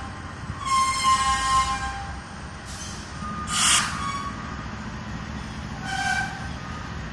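A slow-moving freight train rumbling along the rails, with short high-pitched wheel squeals coming and going. About three and a half seconds in there is a short hiss of air.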